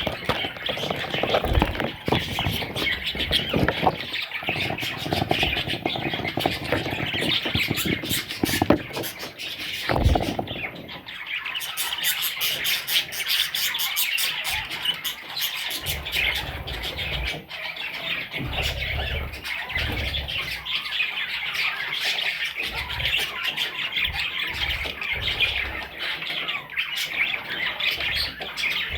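Parrots squawking and chattering continuously: a dense stream of high calls, with many short clicks mixed in.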